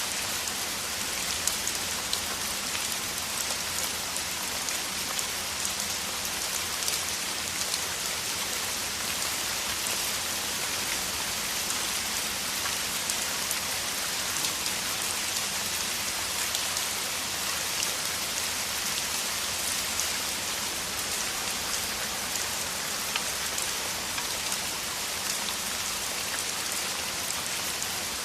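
Heavy rain falling steadily: a dense, even hiss of rain with countless small drop impacts pattering through it.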